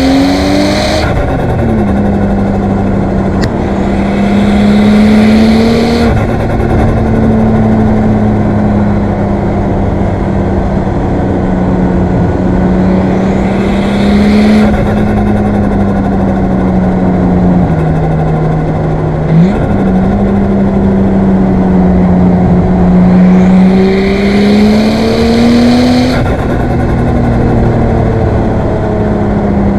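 Single-turbo RB25DET NEO straight-six of a Nissan Skyline R34 GTT running on the road. Several times the engine pitch climbs slowly while a turbo hiss builds, then the hiss cuts off sharply as the throttle is lifted. Near the middle the pitch drops and then jumps back up with a brief loud blip.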